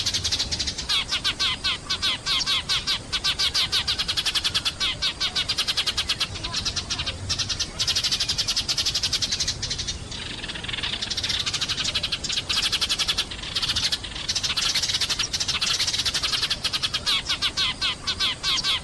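Sparrows chirping in a dense, rapid, continuous chatter of short calls, easing briefly about ten seconds in before picking up again.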